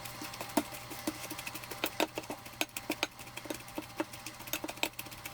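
Potato masher mashing soft cooked apples in a bowl, tapping against the bowl in a quick, irregular run of knocks.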